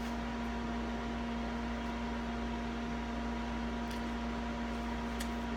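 Steady electrical hum with an even background hiss, with a few faint clicks.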